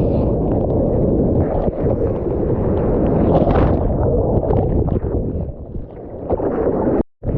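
Strong wind, about 30 knots, buffeting the microphone, mixed with splashing water. The sound cuts out abruptly for a moment near the end.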